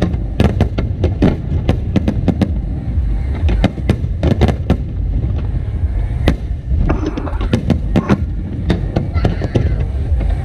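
Aerial fireworks bursting in quick, irregular succession, several sharp bangs a second over a continuous low rumble.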